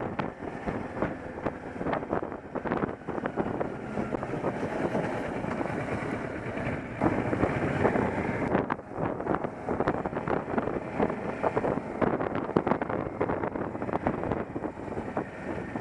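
Motorcycle being ridden on the road: engine running under wind rush, with frequent gusts buffeting the microphone.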